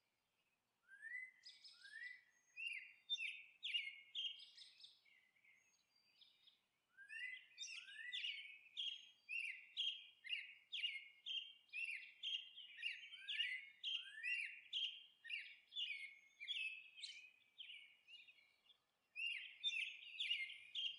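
Faint bird chirping: runs of short, quick rising chirps, about two a second, with a few short pauses between the runs.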